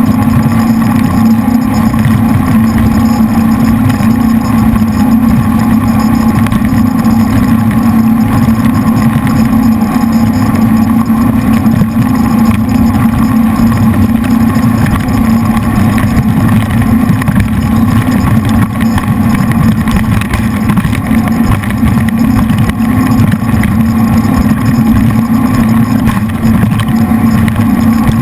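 Jet boat's three V8 engines running steadily under way, a loud low drone that holds level throughout.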